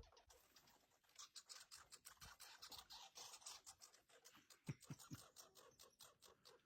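Faint, rapid scratching and clicking of raccoons scrabbling and feeding.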